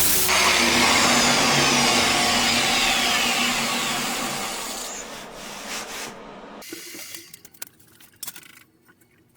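A handheld power tool abrading metal, its whine falling in pitch as it winds down and fading out about seven seconds in. A few faint knocks follow.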